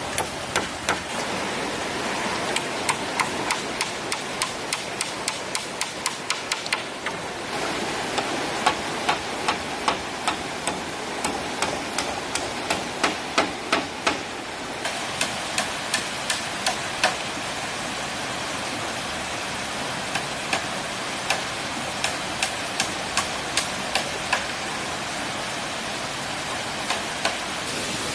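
A tool striking bamboo again and again, in runs of sharp knocks two or three a second with short pauses, over the steady rush of a stream.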